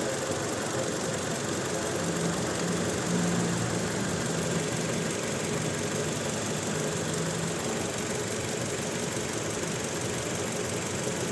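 Toyota Innova petrol four-cylinder engine idling steadily, with a misfire that the mechanic traces to a faulty ignition coil on the second cylinder.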